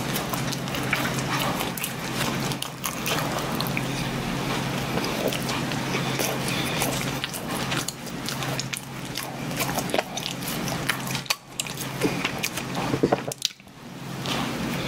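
Close-miked chewing and mouth smacking of a person eating a soft chocolate-coated bread, with irregular wet clicks and a bite near the end. A steady low hum runs underneath.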